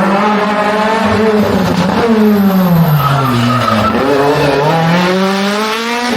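Rally car engine at high revs: the pitch holds, falls for about two seconds as the car slows, then climbs again as it accelerates away.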